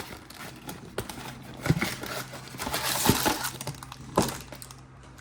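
Trading card pack packaging being torn open and handled: crinkling wrapper with a few sharp crackles.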